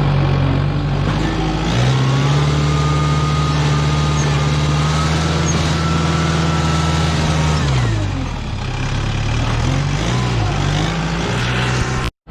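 Tractor engine running: it revs up about two seconds in, holds a steady higher speed, then drops back around eight seconds in. The sound cuts off abruptly just before the end.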